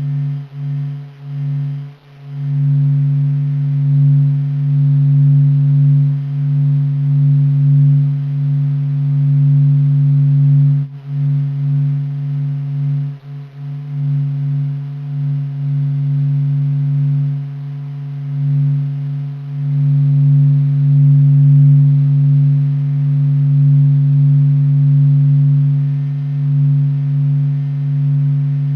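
NASA's sonified sound of the Sun, its surface vibrations made audible: a low steady humming drone with a strong bottom tone and a fainter higher overtone, slowly swelling and fading, briefly dipping about two seconds in and again around eleven and thirteen seconds.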